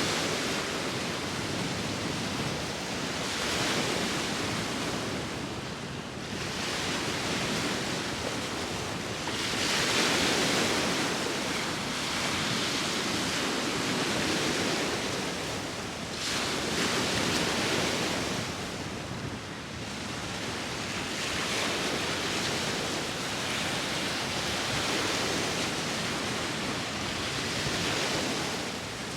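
Sea waves breaking and washing on the shore in a steady hiss that swells and eases every few seconds, with wind blowing over it.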